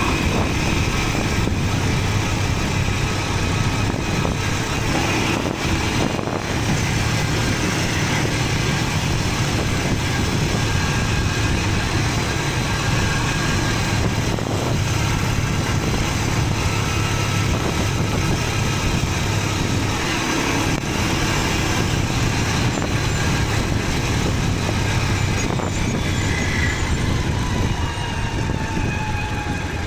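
Motorcycle engine running steadily during a ride, mixed with dense road and wind noise, with a faint falling whine near the end.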